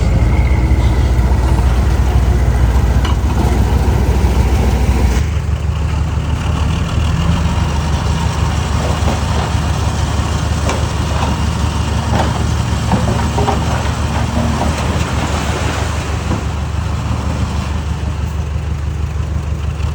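Heavy diesel engine of earth-moving machinery running steadily. The sound changes abruptly about five seconds in, after which scattered short metallic knocks are heard over the engine.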